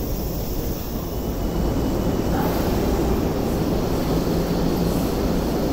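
Tobu electric commuter train of the Hibiya Line through-service moving slowly alongside the platform, a steady low rumble of wheels and traction motors.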